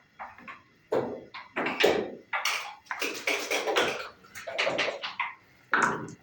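Backgammon dice and checkers clattering on the board: after a quiet first second, a quick irregular run of sharp clacks and rattles.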